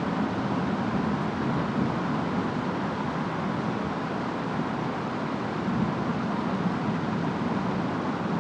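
Steady rain and wind of a distant storm: an even hiss over a constant low rumble, with no distinct thunderclap.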